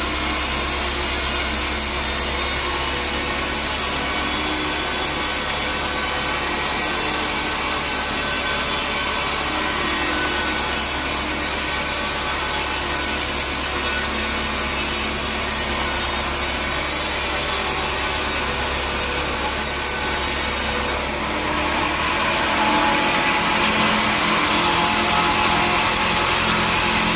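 Sawmill saw cutting through a teak log, a loud, steady sawing noise. About 21 seconds in, the high hiss drops away for a moment and a different, more even machine noise takes over.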